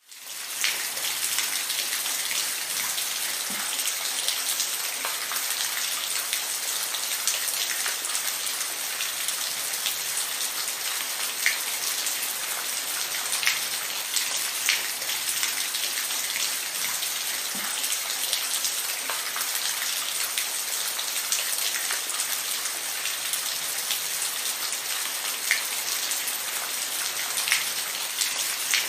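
Steady rain falling: a dense, even hiss with scattered sharper drop ticks. It fades in over the first second.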